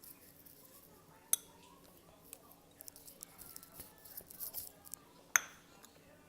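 Eating utensils clinking against dishware: one sharp clink about a second in and a louder one near the end, with faint small clicks and taps of eating between.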